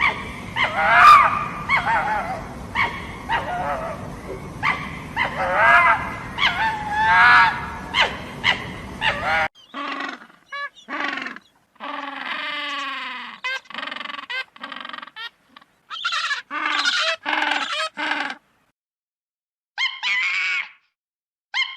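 A series of short pitched animal calls and cries, bending up and down in pitch, over a noisy background. About halfway through the sound changes abruptly to another run of shorter calls, some falling in pitch. The calls stop briefly before one last call near the end.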